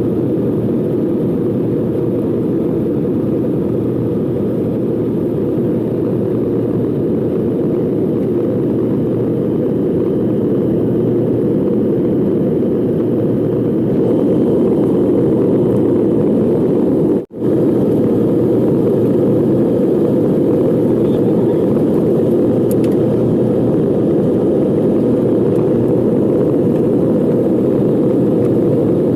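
Jet airliner cabin noise: a steady, deep rumble of the engines and airflow, getting a little louder about halfway through, with a sudden momentary cut-out a few seconds later.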